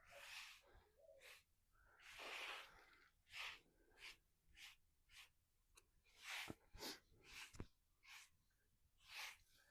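Faint, irregular scraping strokes on the concrete floor of an empty pool, about one to two a second, as leftover mortar is cleaned off, with a few sharp knocks about two-thirds of the way through.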